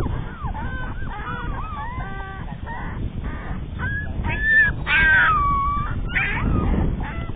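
Young puppies whining and crying, several high thin whines gliding up and down and overlapping, with a louder drawn-out cry about five seconds in. Wind rumbles on the microphone throughout.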